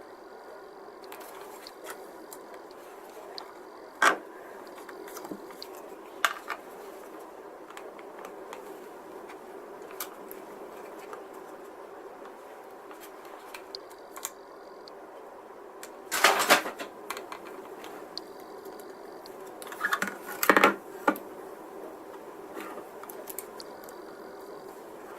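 Hard plastic model-kit parts, a scribing template and small tools being handled on a workbench: scattered sharp clicks, with two short bursts of clatter about 16 and 20 seconds in, over a steady low hum.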